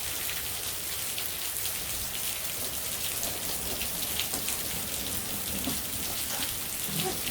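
Heavy rain falling steadily, with many fine individual drop strikes on nearby surfaces.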